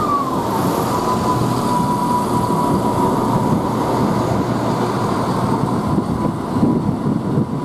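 Diesel multiple unit running past along a station platform: a steady rumble of wheels and engines, with a whine that drops in pitch about half a second in, then holds steady.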